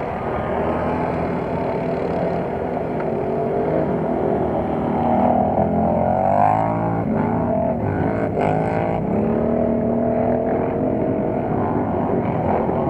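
Several racing ATV engines revving through mud, their pitch rising and falling as they accelerate and ease off, with a sharper run-up twice around the middle.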